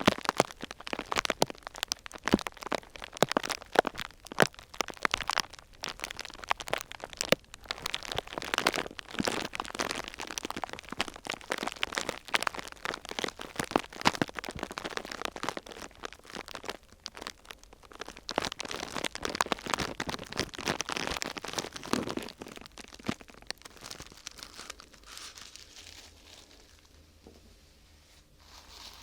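Thin sheet material crinkled and crumpled close to the microphone: a dense, irregular run of crackles that thins out and fades over the last few seconds.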